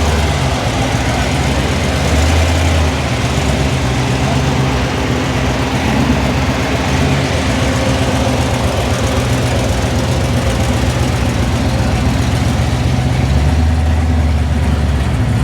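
Car engine idling with a steady low rumble, over an even background hiss.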